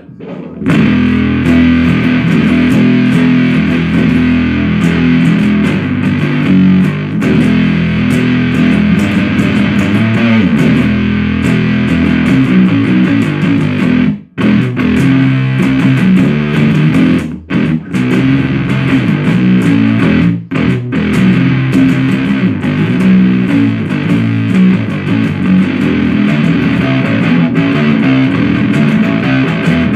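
Heavy fuzz-distorted riffing from an electric guitar through a Supercoolpedals 77 Fuzz Blender, a Big Muff-style fuzz with its tar (clipping) control turned up, into an Orange Super Crush 100 amp. The riff stops briefly a few times, about 14 and 17 seconds in and again near 20 seconds.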